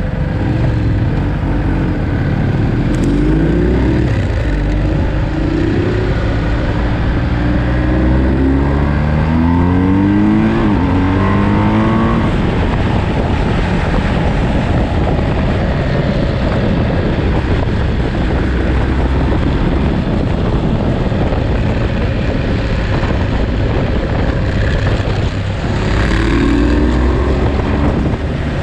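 Ducati Monster's L-twin engine under way on a motorcycle ride, its revs rising in a string of quick climbs, one after another as it pulls through the gears between about two and twelve seconds in, then once more near the end, over a steady rush of wind and road noise.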